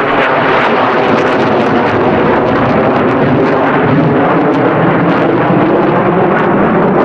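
Jet aircraft flying over, its engine noise loud and steady.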